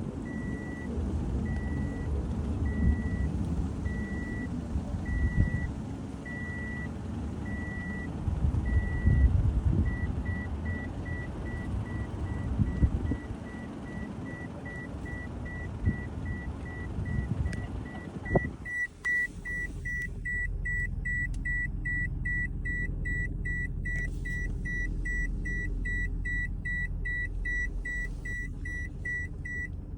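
Car parking-sensor warning beeping, slow at first, quickening about a third of the way through, then very rapid from about two-thirds in, the sign of an obstacle close to the car. Under it the car's road and engine rumble drops to a low steady hum as the rapid beeping starts.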